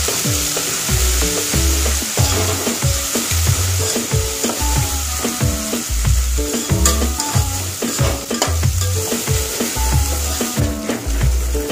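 Onions and green chillies sizzling in hot oil in an aluminium pot while a perforated steel spoon stirs them, scraping the pot now and then. Background music with a steady bass and drum beat plays over it.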